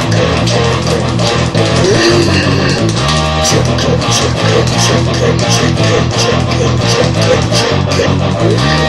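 Instrumental rock music with electric guitar, bass guitar and drums keeping a steady beat, without vocals.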